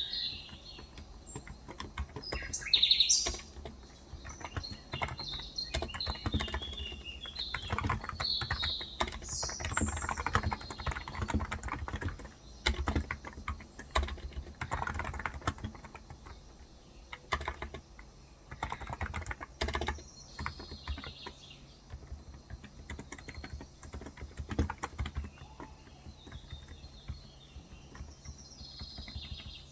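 Typing on a Cox Endeavour electrostatic-capacitive tenkeyless keyboard with 35 g switches, keystrokes coming in uneven bursts. Small birds chirp in the background, loudest about three seconds in and again near the end.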